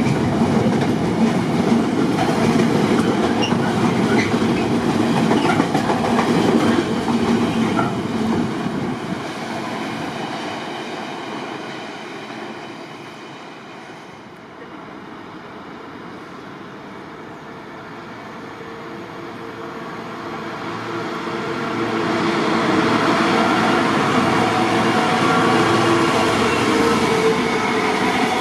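A train runs past close by on the station tracks, its noise fading away over about ten seconds. Then another train comes in and runs past loudly through the last third, with a steady whine.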